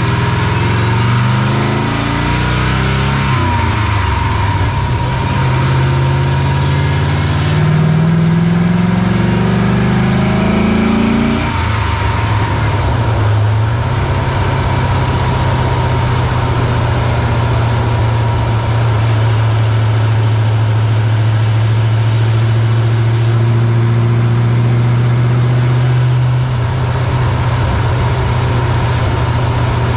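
GM 6.0-litre V8 truck engine revving up twice with rising pitch, dropping off suddenly about eleven seconds in, then running at a steady speed. The truck has a misfire at high rpm.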